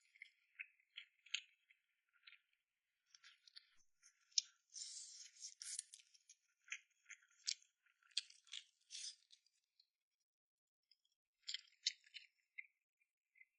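Close-miked eating sounds: soft, irregular wet clicks and smacks of chewing, coming in short bursts, with a pause of about a second and a half shortly before the end.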